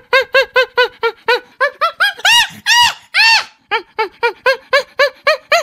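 Monkey calling: a quick series of short calls, each rising and falling in pitch, about four a second. About two seconds in come three longer, higher calls, then the quick series resumes.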